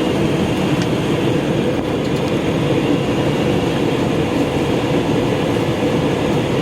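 Steady cabin noise of an airliner in flight, with jet engines and rushing air heard from inside the cabin as an even drone that does not change.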